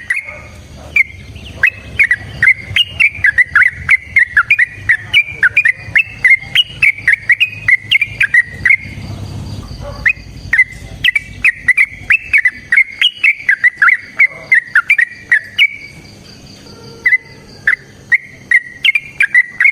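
Yellow-vented bulbul (trucukan) singing a long, rapid chattering run of short, sharp notes, several a second. The run breaks off briefly twice.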